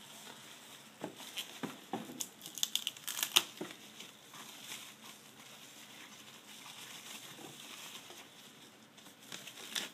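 Plastic packaging crinkling and rustling as a packed part is unwrapped. A burst of sharp crackles comes between about one and four seconds in, then quieter handling, then a few more crackles near the end.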